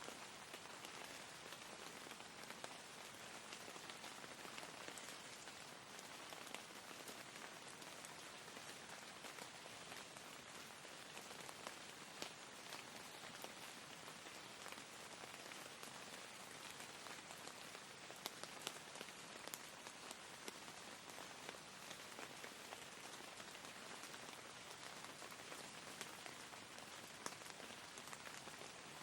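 Soft, steady rain falling, with scattered louder drops ticking through it.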